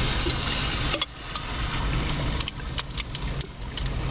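Car driving on a snowy road, heard from inside the cabin: a steady low rumble, with scattered short sharp clicks from about a second in.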